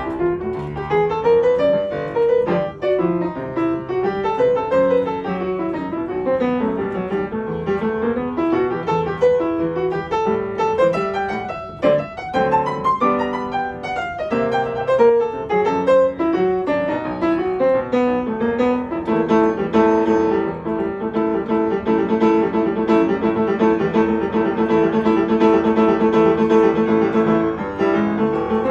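Solo piano playing an instrumental passage of moving melody and chords; about two-thirds of the way through it settles into rapidly repeated chords.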